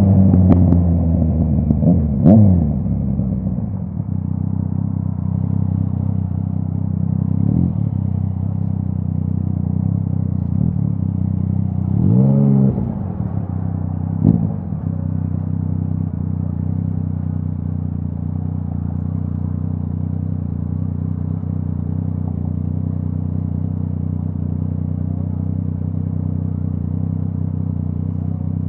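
Yamaha MT-09's crossplane three-cylinder engine through a full Akrapovic exhaust, dropping back to a steady idle at the start and then idling, with a few short throttle blips; the biggest comes about twelve seconds in.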